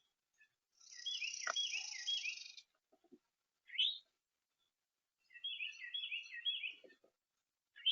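A songbird singing two short bouts of quickly repeated high notes, about three notes a second, with a single short rising call between the bouts and another at the end.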